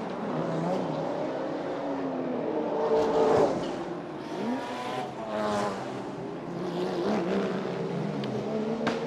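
GT race cars' engines at racing speed on a street circuit, several engine notes rising and falling as cars go by, with louder passes about three and five and a half seconds in.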